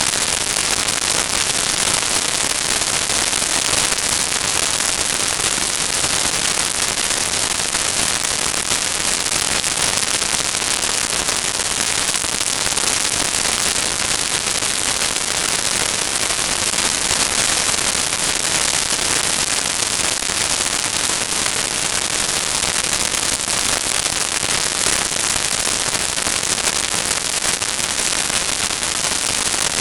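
Steady crackling hiss like static, loudest in the high range, with no breaks or changes in level.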